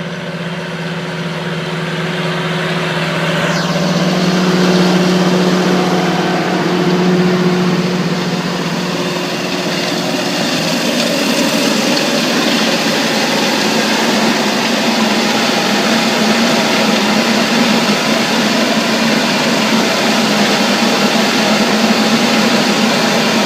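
Tractor engine running steadily under load while pulling a Cross Slot direct drill. It grows louder over the first few seconds as it comes closer, then stays steady.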